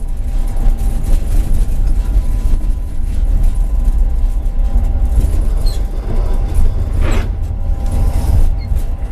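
Tram rumbling, with a faint steady electrical whine over the low noise and a brief sharp sound about seven seconds in.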